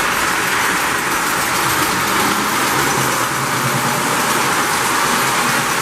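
Lionel postwar #746 O-gauge model steam locomotive running on the track: a steady whir of its motor and wheels on the rails.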